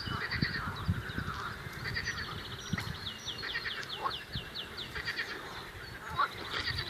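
Birds singing, including a fast run of about ten short, downward-sweeping high notes about three seconds in, among other animal calls.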